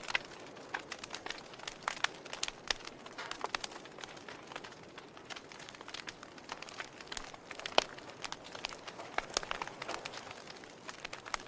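Wood fire crackling: irregular sharp pops and snaps over a soft hiss, with one louder pop about two-thirds of the way in.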